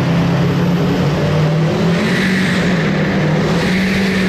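Car engine running at a steady raised speed, its pitch stepping up and down slightly.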